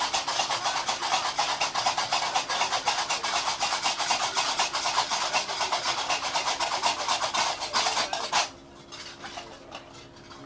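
Gnawa qraqeb (iron castanets) clattering fast and without a break, then stopping abruptly about eight seconds in.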